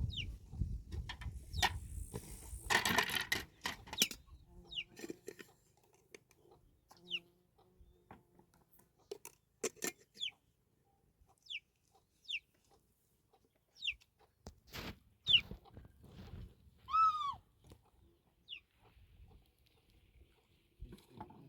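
Chickens: short, high, falling peeps every second or so and one louder drawn-out call about 17 seconds in, among scattered knocks and a burst of rustling about three seconds in.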